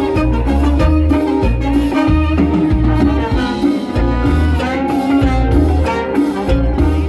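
A live Latin band playing an up-tempo salsa-style number, with a steady, pulsing bass-and-drum beat under the melody instruments.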